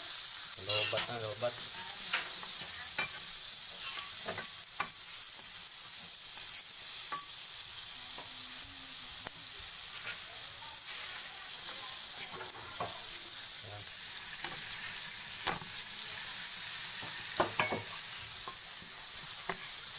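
Sliced onions sizzling as they are sautéed in a pan: a steady hiss, with a spoon scraping and clicking against the pan as they are stirred.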